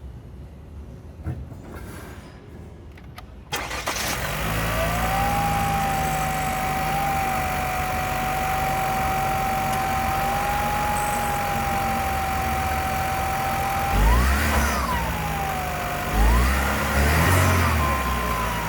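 2019 Holden Equinox engine cranked and started about three and a half seconds in, settling into a steady idle with a steady whine over it, then revved briefly twice near the end.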